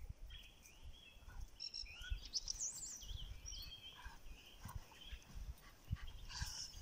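Small songbirds chirping and singing, many short warbling and gliding calls, over scattered low thumps and a faint low rumble.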